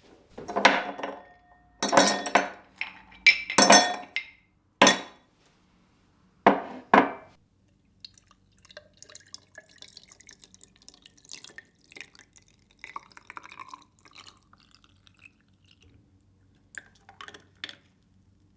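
Glass and dishware being handled in a kitchen: about seven loud clinks and knocks with short ringing tails in the first seven seconds, then faint small handling noises and a few light clicks near the end.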